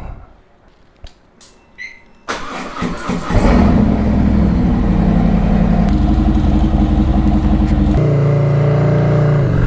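Motorcycle engine being started: a few faint clicks, then it cranks about two seconds in and catches a second later, settling into a steady idle. Its pitch steps up about six seconds in and shifts again about eight seconds in.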